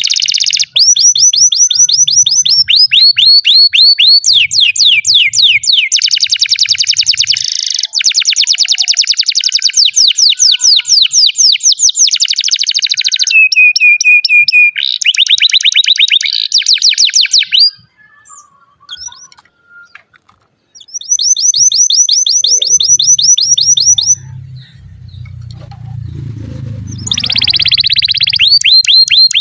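Canary singing a long song of fast rolled trills, each a rapid run of repeated high notes, many sweeping down, with one held whistled note about halfway. The song breaks off for a few seconds past the middle, then resumes.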